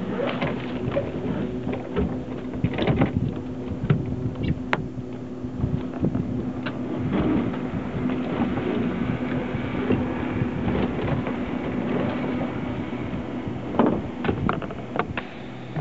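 A small boat under way, a steady low hum under wind and water noise, with frequent irregular knocks and clicks.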